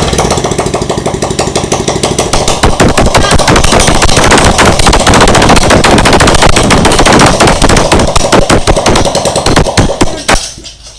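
Motorcycle engine, back in use after four years standing, running with loud, rapid firing pulses, then dying away about ten seconds in.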